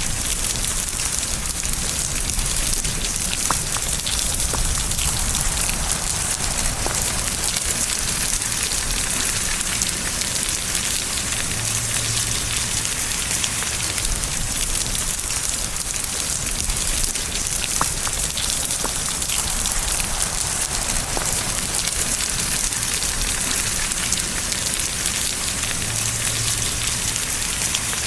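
Steady rain falling on a surface: a dense, even hiss with scattered single drop ticks.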